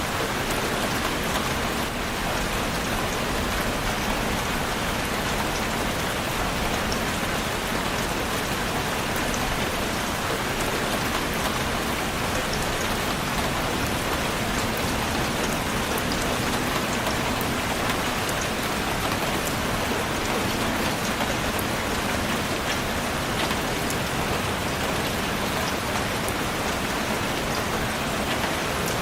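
Steady rain falling and pattering on a surface, with fine drop ticks through a constant hiss.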